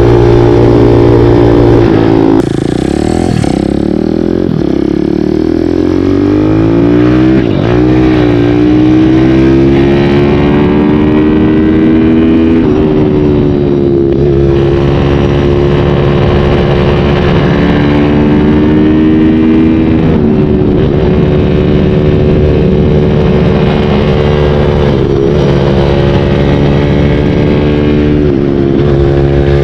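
Kawasaki KLX dirt bike with a 178 cc big-bore kit being ridden, its engine revving up and dropping back several times as it is shifted and throttled.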